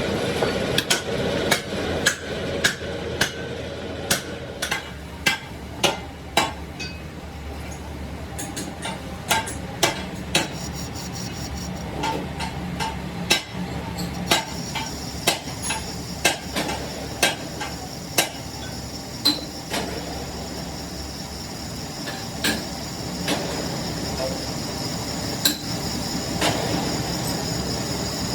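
Hammer blows on metal, struck irregularly about once or twice a second with a sharp ringing clank, over a steady workshop hum. A thin high-pitched whine joins about halfway through.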